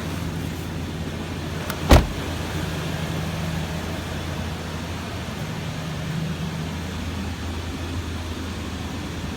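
2005 Toyota 4Runner's 4.7-litre V8 idling steadily. A single sharp knock comes about two seconds in.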